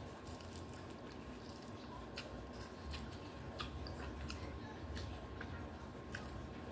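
A person biting into and chewing a piece of battered sweet and sour chicken, heard as faint, scattered small clicks and mouth sounds.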